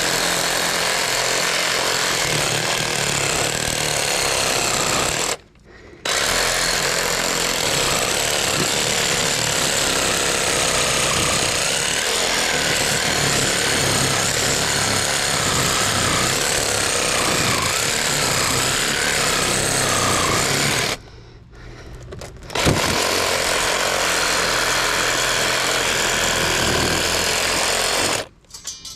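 Reciprocating saw cutting into an electric motor's metal housing, running steadily with a chattering buzz and stopping briefly twice.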